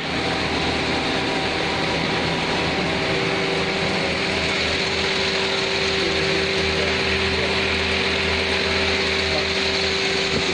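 Ceiling fan rotor turning machine (a hydraulic special-purpose lathe) running steadily: a constant mechanical hum with a held steady tone and no breaks.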